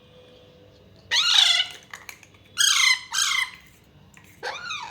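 Alexandrine parakeet chicks giving begging squawks while being hand fed: four loud, high calls, each falling in pitch, one about a second in, two close together in the middle and one near the end.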